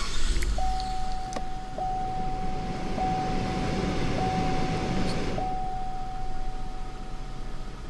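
A 2008 Cadillac SRX's 3.6-litre V6 is idling with a steady low hum; this engine has misfire and cam/crank correlation faults. A steady mid-pitched tone runs over the engine, breaking briefly about every second until about five seconds in. An even hiss stops at the same point.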